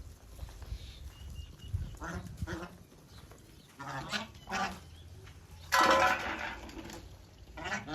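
Domestic waterfowl calling in a series of separate short calls, the loudest and longest about six seconds in.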